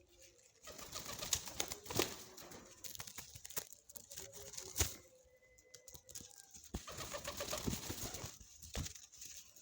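Pigeons cooing in low, pulsed notes, with scattered rustling and clicking around them.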